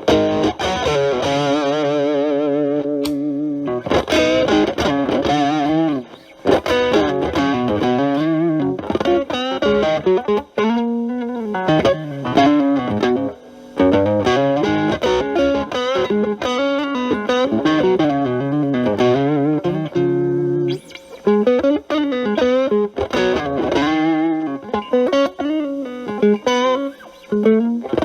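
Fender Stratocaster with single-coil pickups played through a Boss DS-1 distortion stacked with an Ibanez TS9 Tube Screamer into a Marshall Valvestate amp, the guitar's volume knob rolled back so the drive cleans up. Single-note lead lines with bent and wavering notes and a few brief pauses.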